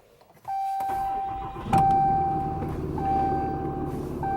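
Car engine idling with an electronic warning chime sounding over it, a steady tone repeating in roughly one-second pulses with short gaps; a single knock about a second and a half in.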